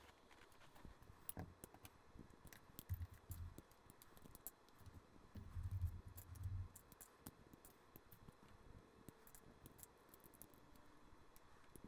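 LEGO bricks being pulled apart and handled: scattered small plastic clicks and taps, with a few dull low thumps.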